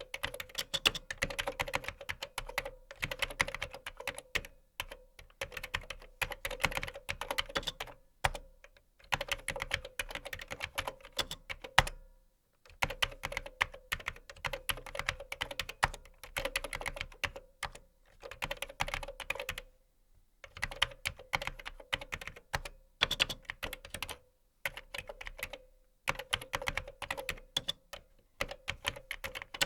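Fast typing on a computer keyboard: rapid keystroke clicks in runs of a few seconds, broken by short pauses.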